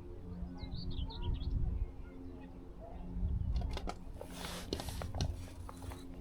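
A small bird chirps quickly several times about a second in, over a low wind rumble and a steady low hum. A few seconds in, a run of sharp clicks and a short rustle of handling noise follows.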